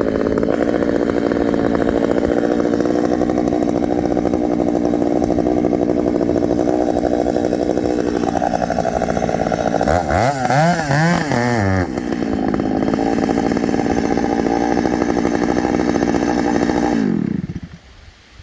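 Gas chainsaw running at steady high speed, with a few quick revs up and down about ten seconds in; near the end the engine winds down and the sound drops away, leaving wind noise.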